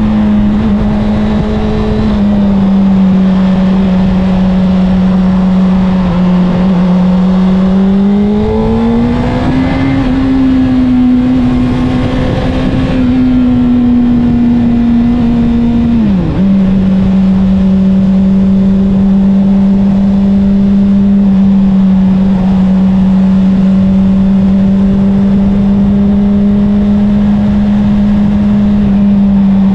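Honda CBR600RR inline-four engine running under way through an Akrapovic exhaust, a steady engine note. It rises in pitch about nine seconds in, holds, then drops sharply for a moment about sixteen seconds in before settling back to a steady cruise.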